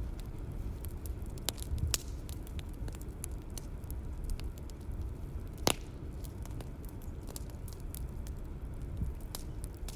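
Bonfire crackling: many small snaps over a low, steady rumble, with one louder pop a little past the middle.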